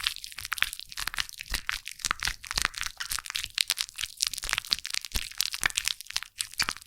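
Foam crackling as many tiny bubbles pop: a dense, irregular run of fine, mostly high-pitched crackles.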